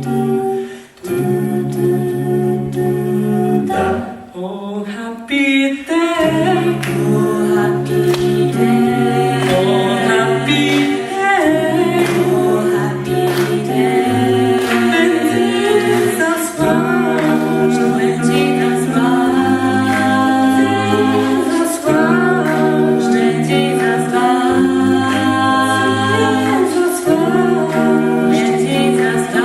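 A cappella vocal group singing a gospel song in close harmony, with bass voices holding low notes beneath the chords. The sound thins out briefly about four seconds in, then the full group comes back in.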